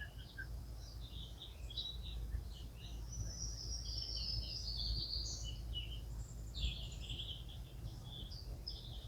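Wild birds chirping and singing in quick short notes, with a longer falling trill a few seconds in, over a steady low rumble.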